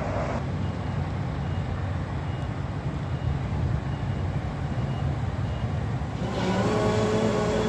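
Construction machinery running on a building site: a steady low diesel rumble with faint beeping repeating about every two thirds of a second. About six seconds in, a louder pitched machine sound with several steady tones joins in.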